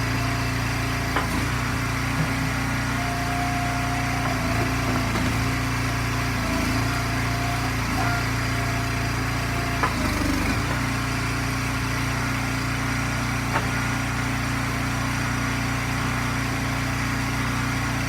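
Gas engine of an Eastonmade hydraulic log splitter running steadily, with a few short knocks over it.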